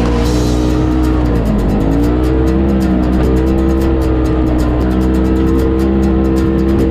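Polaris RZR side-by-side engine running under load on a trail, its pitch dipping about a second and a half in, then rising again and holding steady.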